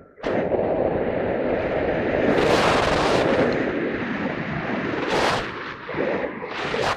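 Wind buffeting the microphone in heavy, rumbling gusts that surge and ease, dropping out briefly at the start and again just before the end.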